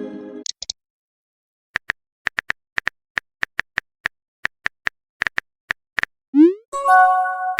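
Phone keyboard typing sound effect: a string of short, irregular taps. Near the end comes a short rising swoosh, then a chiming message tone of several notes held together.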